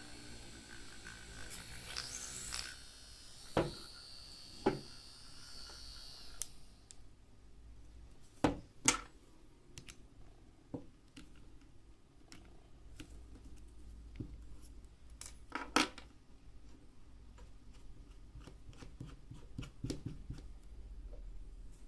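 Small electric motor of a homemade mini drill running with a steady high whine, which stops about six and a half seconds in. Then sharp clicks and knocks of parts being handled, the loudest two close together about halfway through and one more near the end.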